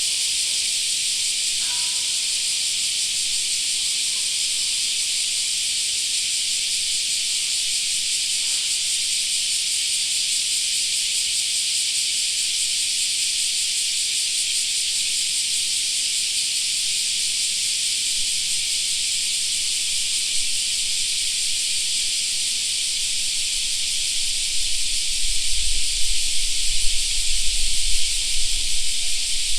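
Dense chorus of cicadas shrilling steadily, a continuous high hiss with no breaks. An uneven low rumble joins near the end.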